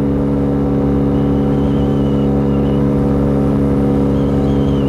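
A 50cc four-stroke scooter engine fitted with a big bore kit, running at a steady high pitch at around 8,300 RPM while holding about 50 mph. Low wind rumble sits under it.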